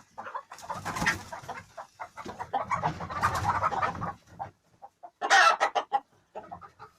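A few domestic hens clucking in short repeated calls, with a louder, sharper call a little past five seconds in. Two longer stretches of rustling noise run under the clucking in the first half.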